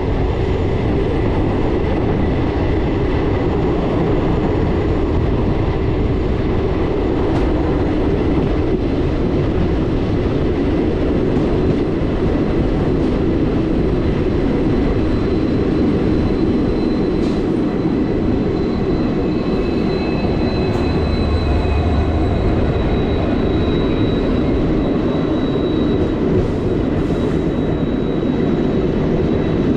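Indian Railways passenger train running along the track: a steady rumble of coach wheels on the rails. A thin, high wheel squeal comes in about halfway through and fades again.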